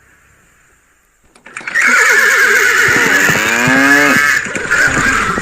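Horse whinnying once, beginning about a second and a half in: a loud, quavering neigh that falls in pitch at the end, with a lower, rougher snort-like tail.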